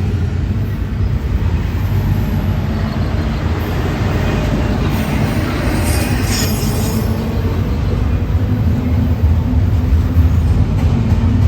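CSX freight train rolling past, its cars making a loud, steady rumble. A brief brighter, higher metallic sound comes from the wheels about halfway through.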